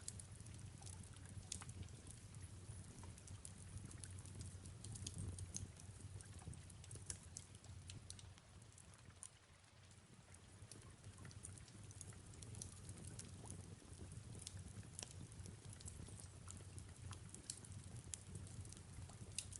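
Fireplace crackling with soft rain falling: faint scattered sharp crackles over a steady low rumble, easing briefly about halfway through.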